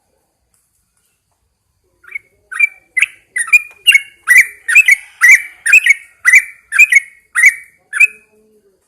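Yellow-vented bulbul singing: a run of about thirteen short, loud notes at roughly two a second, starting about two seconds in and stopping shortly before the end.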